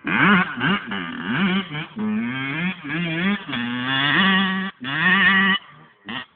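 Two-stroke dirt bike engine revving, its pitch climbing and dropping again and again as the throttle is worked, with brief breaks as it comes off the gas near the end.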